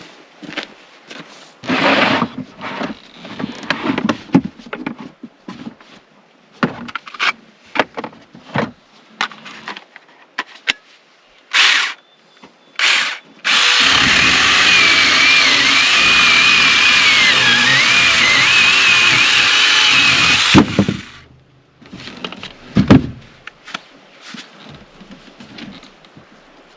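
Chainsaw blipped twice, then cutting through a log for about seven seconds, with a steady run and a wavering whine under load. Before it come scattered knocks and rustles of wood being handled.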